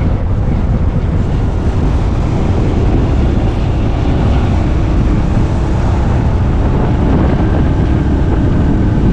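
Motorcycle riding along steadily, its engine hum under heavy wind rumble on the microphone.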